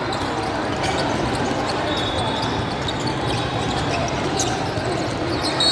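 Basketball game in a gym: steady spectator chatter with a basketball bouncing on the court and a couple of brief high squeaks, about two seconds in and again near the end.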